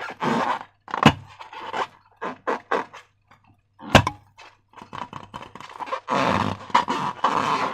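Slime being squished and kneaded by hand: wet squelches in irregular bursts, with two sharp pops about a second in and about four seconds in.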